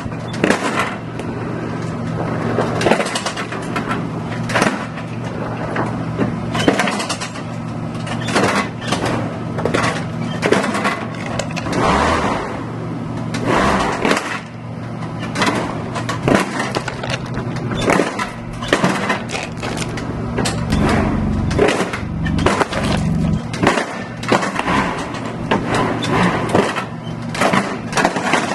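Lawnmower engine running steadily while its blade smashes a plastic toy, with a constant stream of sharp cracks and clattering breaks over the engine hum.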